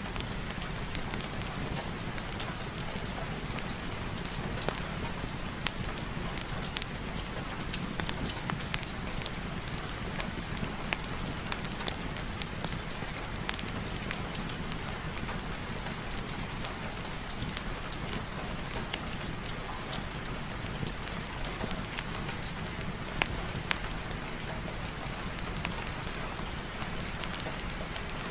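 Steady heavy rain: an even hiss peppered with many sharp drop ticks, over a low steady rumble.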